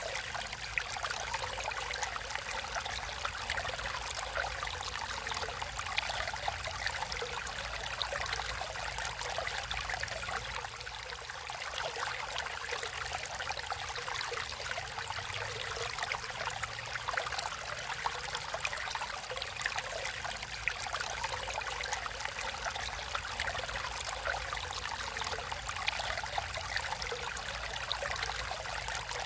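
Shallow stream water running and trickling over stones: a steady splashing hiss full of small bright droplet sounds.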